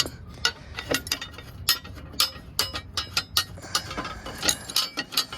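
Irregular metallic clicks and clinks of hand tools and bolts as a cover is unbolted, a few sharp ticks a second.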